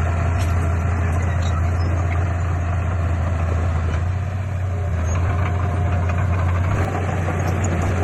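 Heavy diesel engine of earthmoving equipment running steadily with a deep, even drone.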